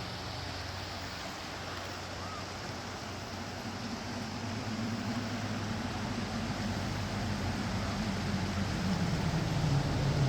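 Steady vehicle road noise. About halfway through, an engine drone comes in, grows louder and sinks slightly in pitch.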